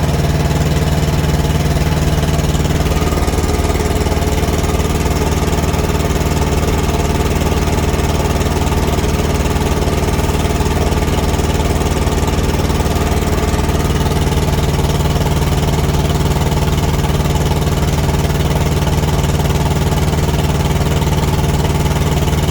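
Thermo King TriPac APU's three-cylinder diesel engine running steadily and pretty regular, a little rough as a three-cylinder is. It is a bit loud from a small exhaust leak on the backside.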